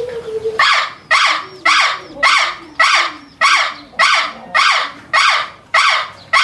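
A harsh animal call repeated about eleven times at an even pace, a little under two calls a second.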